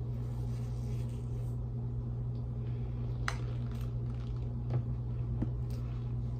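Chewing a mouthful of dry cornstarch: a few soft clicks and squeaks about halfway through and later, over a steady low hum.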